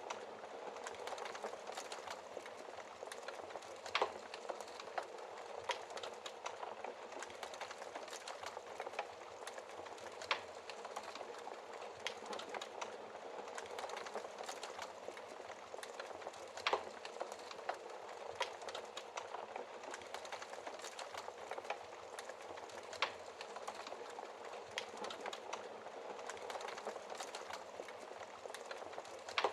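Wood fire in a fireplace crackling: a dense, steady crackle, with a sharper, louder pop about every six seconds.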